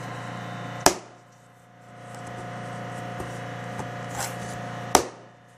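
Two sharp snaps about four seconds apart as pieces of a replacement pleated filter media are pressed into the notches of an Aprilaire 201 air cleaner's plastic rack, over a steady hum.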